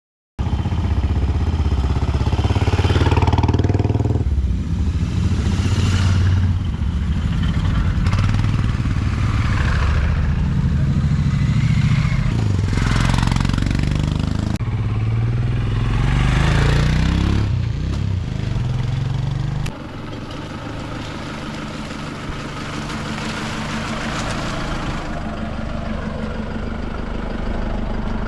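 Motorcycle engines running, the engine note rising and falling several times. About twenty seconds in the sound cuts to a steadier, quieter engine running.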